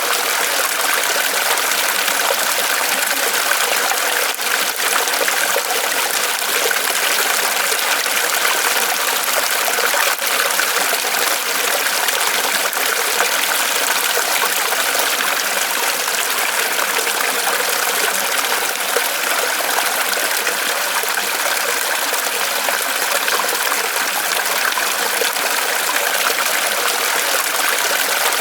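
Small waterfall trickling off a tree trunk: a steady, unbroken patter of falling water, bright and hissy with little low rumble.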